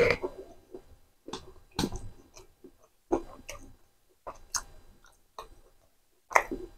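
Close-miked chewing of spicy macaroni and raw vegetables eaten by hand: a string of short, sharp mouth clicks at irregular intervals, about every half second to a second, with brief quiet gaps.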